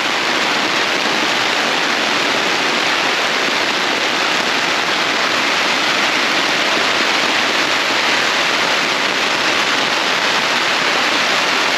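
Heavy, unbroken rain falling on a tent, heard from inside as a dense, even hiss.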